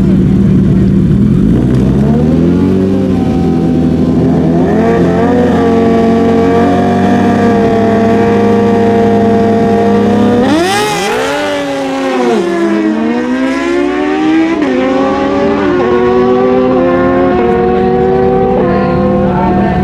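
Naturally aspirated stock drag-racing motorcycles revving up and holding high revs, then launching. The engines then climb through the gears with a quick drop in pitch at each upshift, about every second and a half.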